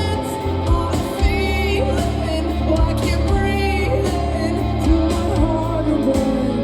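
Rock band playing live, with drums, bass, electric guitar and a singing voice.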